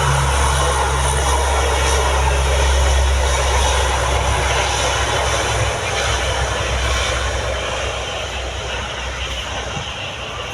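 Lockheed C-130 Hercules four-engine turboprop at take-off power: a steady deep propeller drone under a broad engine roar, fading from about halfway through as the aircraft moves away.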